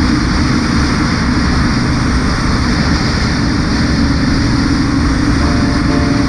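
Kawasaki cruiser motorcycle's engine running at steady cruising speed, heard from a handlebar-mounted camera with heavy wind rush buffeting the microphone. Music notes come in faintly about five and a half seconds in.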